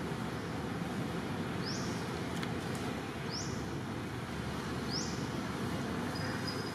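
Steady outdoor background hiss with a bird repeating a short, high, rising chirp three times, about every one and a half seconds.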